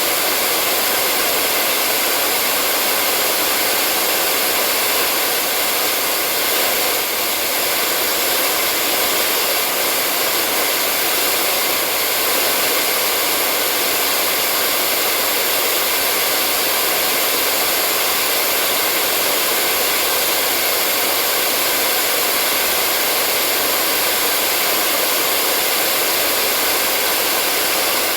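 Hair dryer running steadily, a continuous even rush of air with a faint motor whine.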